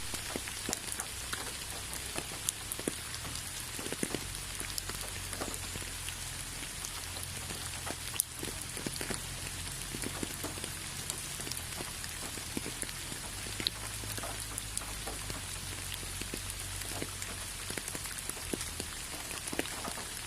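Steady rain falling and pattering on surfaces, with many scattered drops landing close by and a low rumble underneath.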